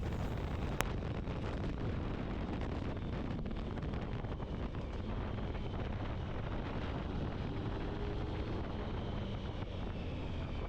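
Motorcycle engine running under way, with heavy wind rushing over the microphone. A single sharp click comes about a second in.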